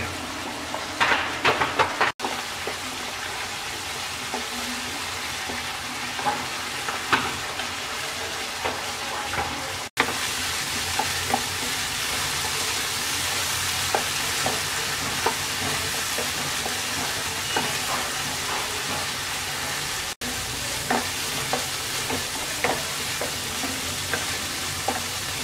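Thick masala paste of onion, spices and tomato purée sizzling steadily in oil in a non-stick pan, with a wooden spatula stirring and scraping through it in scattered taps. The paste is being fried down until the oil separates. The sound drops out for an instant three times.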